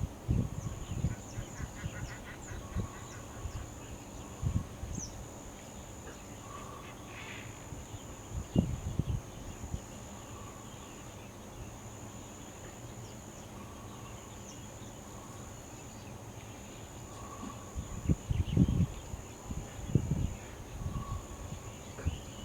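Wetland field ambience: a steady high insect drone with short regular breaks, a few faint bird chirps, and irregular low bumps and rumbles that are heaviest near the end.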